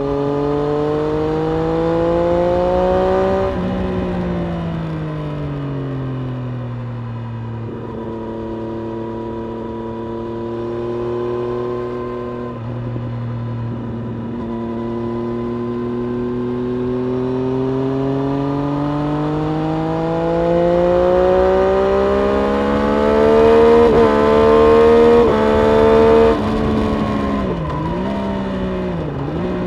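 Triumph Street Triple RS 765 cc inline-three engine riding a lap at full track pace: it rises in revs, falls away for about four seconds, then climbs in one long pull with quick stepped upshifts about 24 to 26 seconds in. Near the end the revs dip sharply twice and then drop.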